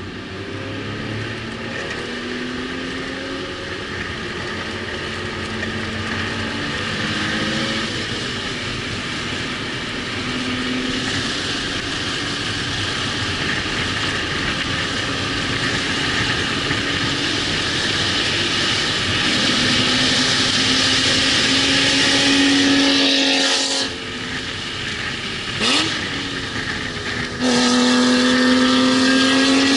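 Car engine lapping a road-racing circuit, pulling hard and growing steadily louder for about twenty seconds. It then drops off suddenly as the throttle is lifted, gives a short rev about two seconds later, and comes back on full power near the end.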